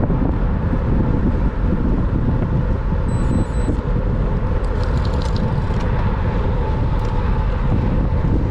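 Steady rushing wind and road rumble from riding a road bicycle, with a few faint high ticks around the middle.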